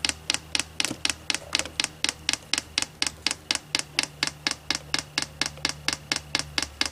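Diesel heater's fuel dosing pump clicking steadily, about five clicks a second, in manual pumping mode to prime the fuel line and push out the air in it.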